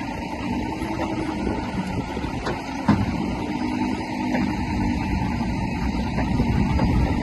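Heavy diesel earthmoving machinery running steadily, with a sharp knock about three seconds in.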